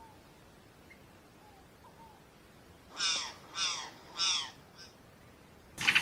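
A wild bird giving three loud, harsh cawing calls about two-thirds of a second apart, each falling in pitch, after a few faint thin whistles. A loud buzzing rattle starts just before the end.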